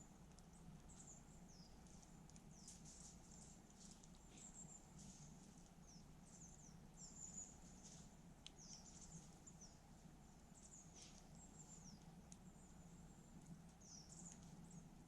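Faint campfire: small crackles and pops, with many thin, high chirping squeaks sliding in pitch throughout, over a low steady rumble.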